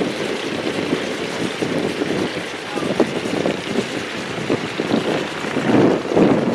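Classic muscle car's engine idling while staged at the line, uneven and surging, with wind buffeting the microphone.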